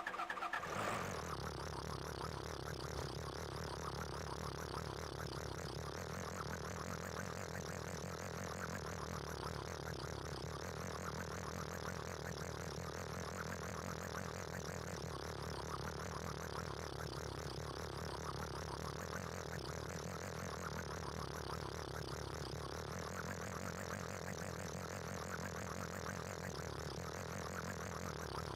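A small motor running steadily, an even, unchanging mechanical whir.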